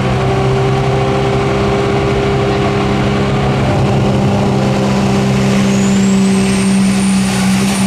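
Super Stock diesel pulling truck's engine running loud and steady, with a high turbocharger whistle that rises about five and a half seconds in and then holds.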